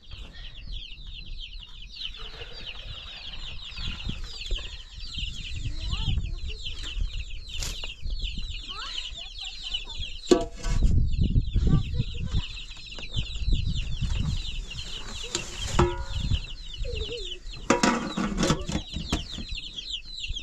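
A flock of chickens peeping and clucking in a dense, continuous chorus of short high chirps. A low rumble runs underneath, and a few knocks come about halfway through and again later on.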